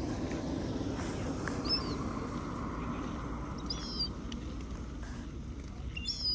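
House sparrows chirping: a few short, high chirps, about three times, over a steady rushing background noise.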